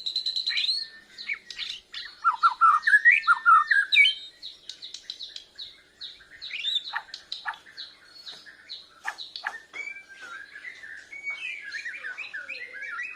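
White-crowned shama singing. A fast, even high trill breaks off about a second in, followed by a long run of varied whistled and warbled phrases sliding up and down, mixed with sharp chips and ticks. It is the song of a shama still learning to sing.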